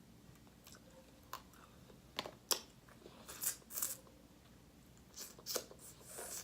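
Close-up eating sounds from a seafood mukbang: a few sharp cracks and crunching bites spread over several seconds, with short gaps between them.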